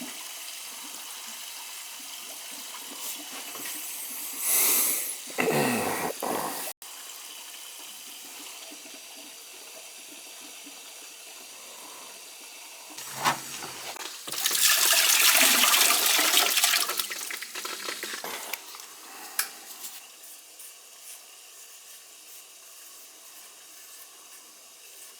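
Water and trapped air rushing through a hot-water heating system during a purge, with louder sputtering surges as pockets of air pass, the biggest about two-thirds of the way in. The rushing dies down toward the end as the air is purged out.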